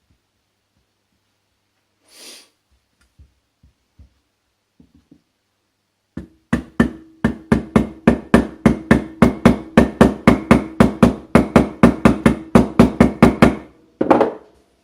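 Rapid hammer blows on a metal part, about four a second for some seven seconds, each strike ringing briefly, then one last burst of knocks near the end.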